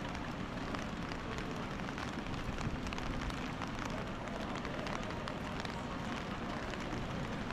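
Busy pedestrian street in the rain: a steady wash of crowd chatter, footsteps and falling rain, with scattered small sharp ticks.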